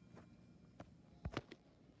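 Near silence with a few faint short clicks, the plainest two about a second and a quarter in.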